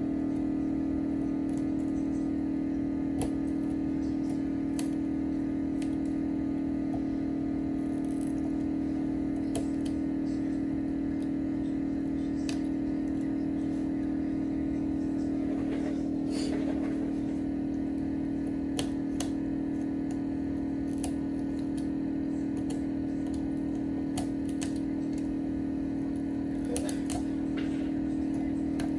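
A steady electrical hum, even throughout, with scattered light clicks and taps.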